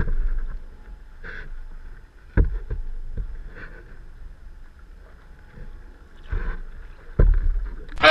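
Kayak paddling: paddle strokes splashing in the water every couple of seconds, with two sharp knocks of the paddle against the kayak hull, and low wind rumble on the action-camera microphone.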